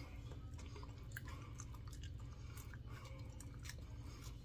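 A person chewing a bite of bar soap with the mouth closed: faint, irregular little clicks of chewing.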